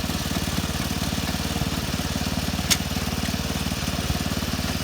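Small engine idling steadily with a fast, even beat, and a single sharp click a little past halfway.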